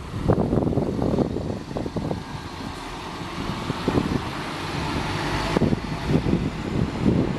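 A road or rail vehicle going by, a steady hiss that builds from about a second and a half in and cuts off about five and a half seconds in, over gusts of wind rumbling on the microphone.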